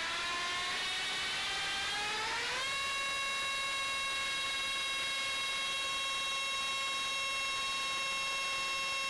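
Electric ducted fans of an RC Airbus A340 model spooling up: a whine rising in pitch over the first few seconds, then holding a steady high pitch with a rushing air noise under it.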